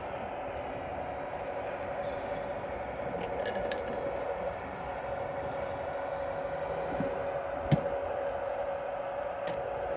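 Steady, even hum of a small motor, with a few sharp clicks, the loudest about three quarters of the way through, and faint bird chirps above.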